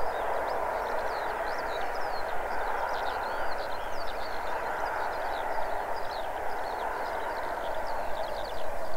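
Distant passenger train passing, heard as a steady even hiss, with songbirds chirping and trilling constantly over it.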